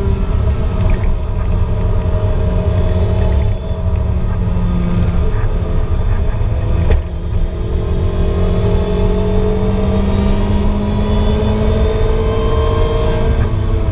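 2008 Lotus Exige S240's supercharged 1.8-litre four-cylinder engine at racing revs, heard from inside the cabin with tyre and road noise. The engine note dips about three seconds in as the car slows for a corner, then from about seven seconds climbs steadily in pitch under full acceleration down the straight.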